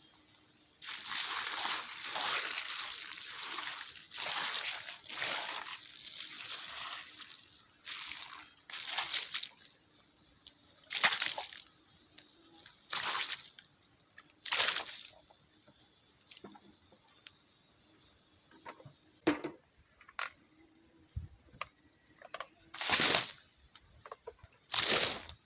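Water poured onto the embers of a campfire to put it out, hissing and splashing. One long pour runs for about six seconds, then a run of short splashes follows, each one or two seconds apart.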